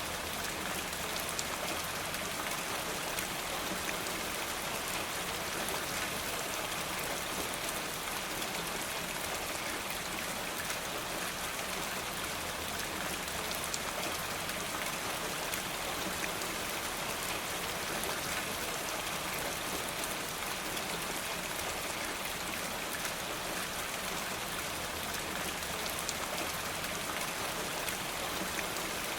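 Steady rain falling, an even hiss of many fine drops that never changes in level.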